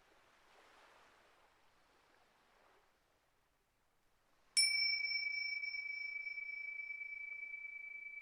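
A small bell-toned metal instrument is struck once about four and a half seconds in. It rings on one high, clear tone that fades slowly. Before the strike there is faint rustling.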